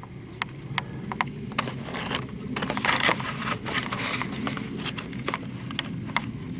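Irregular metallic clicks and scraping of hand tools working a transmission bolt into the bellhousing, with a steady low hum behind.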